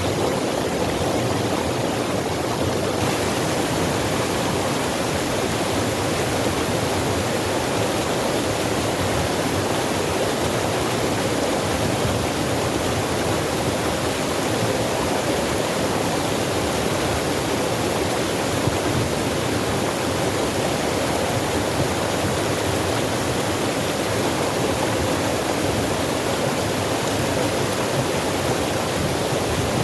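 Forest stream rushing over rocks, a steady, even water noise with no breaks.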